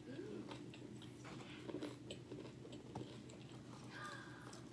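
A person chewing and biting fried fast food with the mouth full: many small crunches and wet mouth clicks at an uneven pace.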